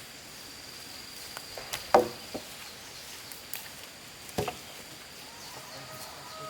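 A steady high insect drone with a few sharp knocks of construction work, the loudest about two seconds in and another at about four and a half seconds.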